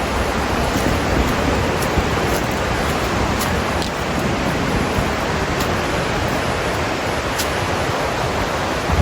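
Steady rushing of a creek running through a rocky gorge, with a few faint clicks on top.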